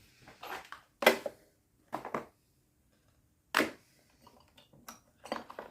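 About five short scratchy strokes with pauses between them: tyre-repair glue being brushed onto the cleaned rubber inside the tyre.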